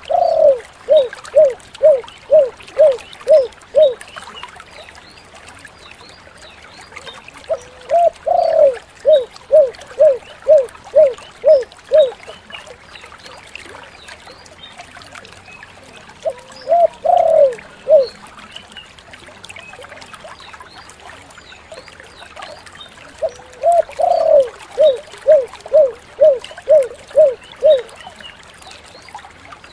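Spotted dove (tekukur) singing its repeated cooing song: four bouts, each a rising opening coo followed by a quick run of about seven short even 'kuk' coos, two or so a second; the third bout breaks off after only a couple of notes.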